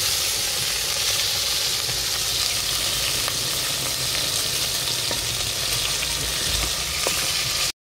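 Chicken pieces sizzling as they fry in an aluminium pot, stirred with a spoon, with a few light ticks of the utensil against the pot. The steady frying hiss stops abruptly near the end.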